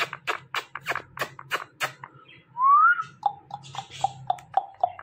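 Ringneck parrot making rapid sharp clicks, about four a second, then a single rising whistle, then a quick run of short clear notes at about the same pace.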